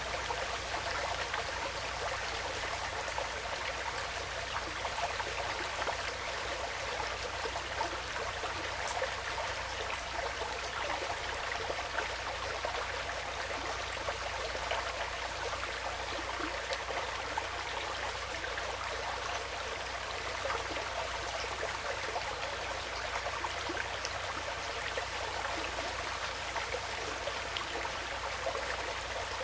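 Stream flowing steadily, a constant trickling wash of water with small splashes.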